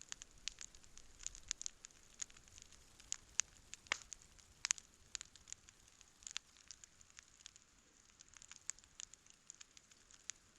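Wood campfire crackling and popping in irregular sharp snaps over a faint hiss, with a couple of louder pops about halfway through.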